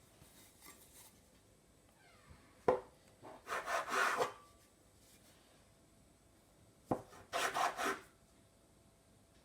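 A knife cutting bread dough on a wooden board, heard twice: a sharp knock as the blade meets the board, then about a second of quick scraping strokes.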